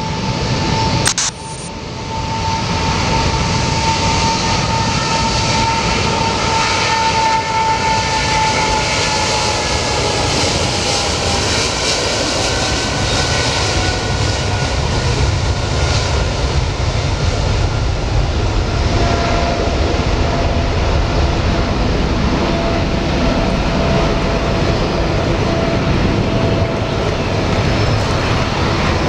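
Twin-engine jet airliner taking off at full thrust: a loud, steady rush of engine noise with a whining tone that slowly drops in pitch as the aircraft goes past.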